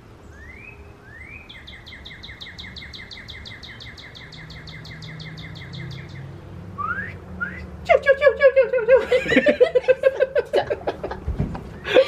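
A songbird singing: a couple of quick rising notes, then an even, rapid trill of about seven notes a second lasting some four seconds, then more rising notes. About eight seconds in, loud laughter takes over and is the loudest sound, with a low thump near the end.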